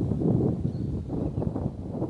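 Wind buffeting the microphone, an uneven low rumble, with one faint short bird note a little before the middle.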